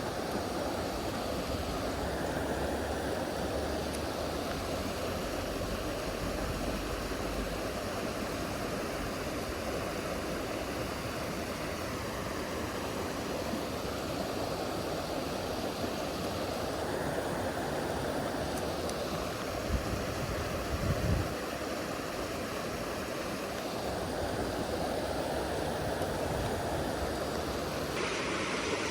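Mountain stream rushing over rocks, a steady even wash of water. A couple of low thumps about twenty seconds in.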